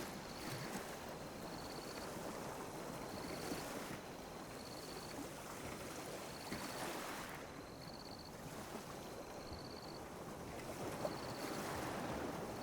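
Small ocean waves lapping and washing on a beach, swelling and easing every few seconds. A short high chirp repeats faintly about every second and a quarter.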